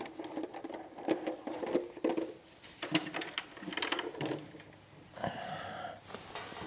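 Hens clucking in a coop amid a run of short knocks and clicks from handling eggs and nest boxes.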